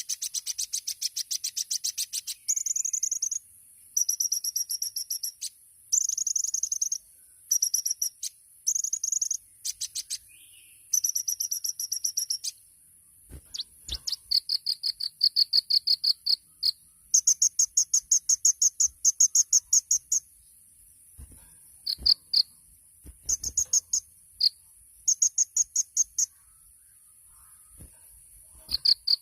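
Kolibri ninja sunbird singing the rapid 'tembakan' trills: high-pitched, fast ticking bursts of one to two seconds each, repeated with short pauses, over a steady high hiss.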